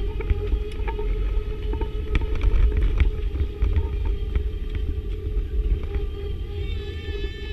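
Airliner cabin noise: a steady low rumble with a constant hum, and a few light clicks.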